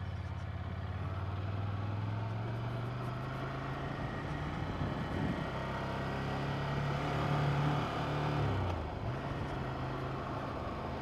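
Ducati Monster 797's air-cooled L-twin engine running under the rider at low town speed, a steady note that climbs gradually and then drops sharply about eight and a half seconds in as the throttle closes.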